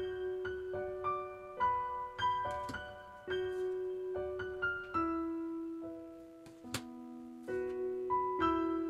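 Background piano music: a slow melody of single struck notes, each ringing and fading, over held lower notes.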